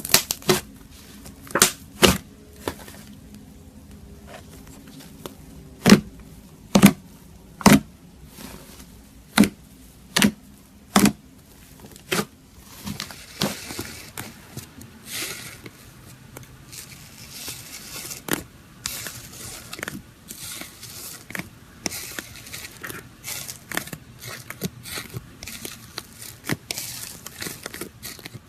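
Slime being played with by hand: sharp pops of trapped air, one every second or so, then a denser run of softer crackling from about twelve seconds in.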